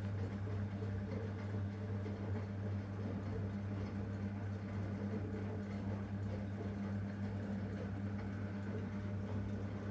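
Zanussi washing machine running a 90 °C hot wash: a steady, even machine hum with a low drone.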